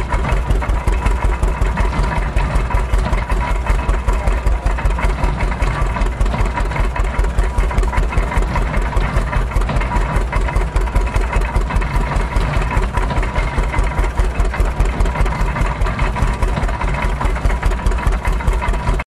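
Antique tractor engine running steadily under belt load, driving a stationary hay press off its belt pulley, with an even, rapid exhaust pulse of several beats a second and a steady whine above it.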